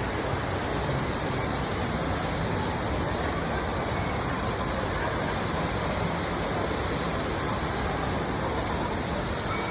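Steady rush of falling water from a 15-metre indoor waterfall, an even unbroken hiss.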